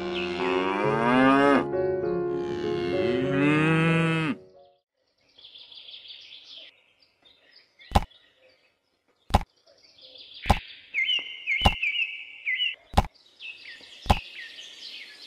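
Cow mooing twice, two long calls over the first four seconds, each bending down in pitch at the end. Then faint bird chirps and six sharp clicks about a second apart.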